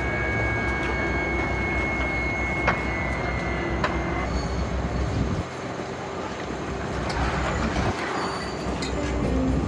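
Alaska Railroad passenger train rolling along the track with a steady rumble and a few sharp clicks. A thin, steady high squeal runs for the first four seconds or so and then stops, and the rumble softens for a couple of seconds around the middle.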